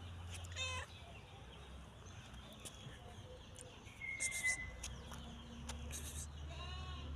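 Cat meowing twice, a short call about half a second in and another near the end, over a steady low hum.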